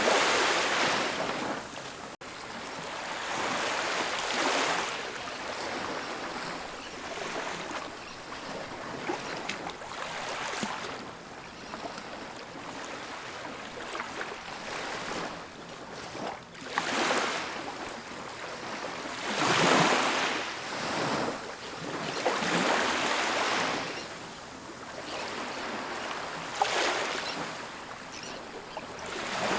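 Ocean surf: waves breaking and washing up a beach, swelling and fading every few seconds, with the strongest waves breaking about two-thirds of the way through.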